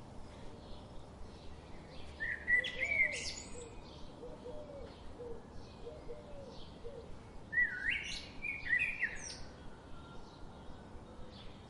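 Several songbirds singing and chirping over a faint steady hiss. Two louder, quick song phrases come about two seconds in and again near eight seconds, with a run of faint, lower notes between them.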